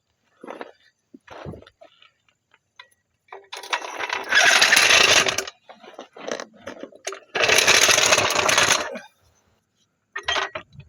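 Two bursts of a power tool running, each lasting about a second and a half to two seconds, the first a few seconds in and the second near the end, with short metallic clinks and knocks of tools between.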